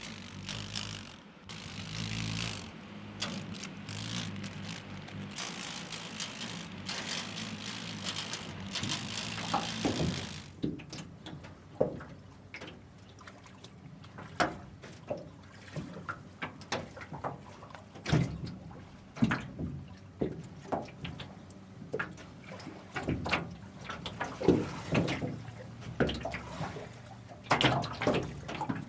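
Layered recordings of water: a steady rush of running or pouring water for about the first ten seconds, then scattered drips and small splashes.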